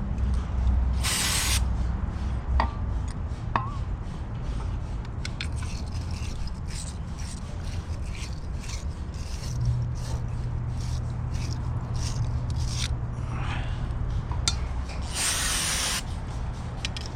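Two short hissing sprays, one about a second in and a longer one near the end, with light clicks and rattles of small parts being handled between them over a steady low hum.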